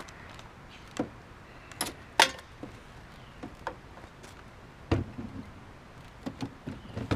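Irregular knocks and clunks of hard gear being handled, about eight of them, the loudest about two seconds in.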